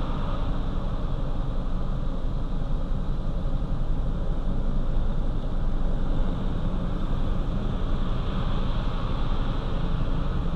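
Steady low hum of an idling car, with an even hiss over it and no change throughout.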